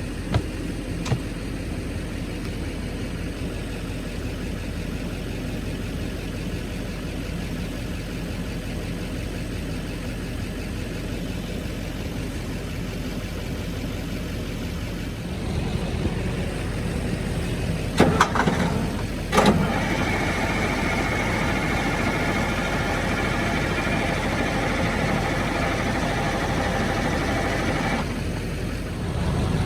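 The 1971 Insley excavator's diesel engine running with a steady low rumble after years of sitting. About fifteen seconds in it picks up; there are two sharp knocks, then it holds a higher, steadier note for about eight seconds before settling back near the end.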